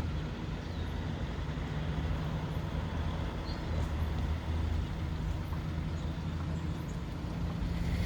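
Steady low engine hum, like a motor vehicle idling, with a few faint high bird chirps over it.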